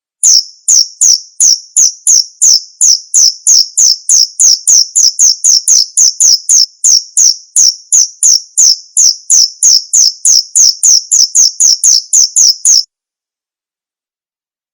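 Male cricket chirping steadily at about three high-pitched chirps a second, each a short downward-sweeping pulse. The chirping cuts off suddenly near the end.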